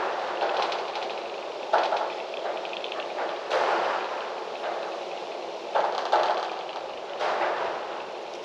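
Gusty wind rushing through trees and foliage, surging suddenly every second or two.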